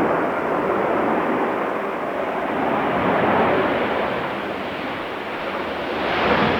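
Jet airliner engine noise from a landing aircraft, swelling and easing in waves, mixed with gusty crosswind buffeting the microphone.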